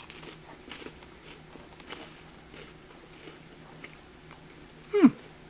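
Chewing crunchy Cheez-It crackers, with faint, irregular crunches. Near the end, a brief, louder sound slides quickly down in pitch.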